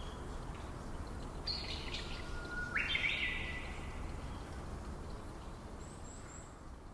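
Wild birds calling over a steady low background hiss: a call about a second and a half in, then the loudest call about three seconds in, which starts on a low held note and jumps abruptly higher, and a few faint high chirps near the end.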